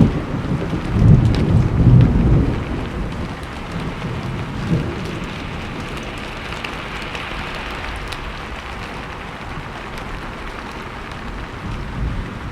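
Steady rain falling, with a low rumble of thunder swelling and fading over the first couple of seconds.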